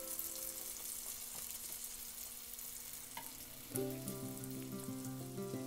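Banana and wheat-flour appam batter sizzling steadily as it deep-fries in hot oil. Soft background music comes in a little over halfway through.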